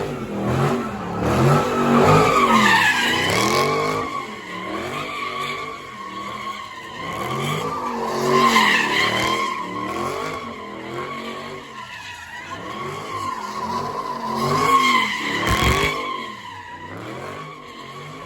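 A car's tires squealing in a long, continuous skid, with the car's engine running under it; the squeal wavers a little in pitch and swells and fades, loudest about two, eight and fifteen seconds in.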